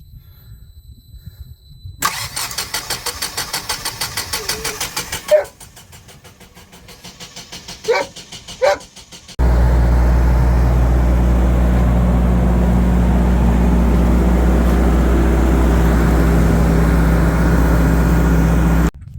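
Generac standby generator's engine cranking on its starter with a fast, even chug, the cranking going weaker for a few seconds, then catching about nine seconds in and running steadily. It cuts off suddenly near the end.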